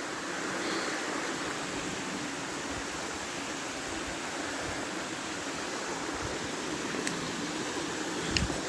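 Steady rushing noise of falling and running water, with a couple of faint clicks near the end.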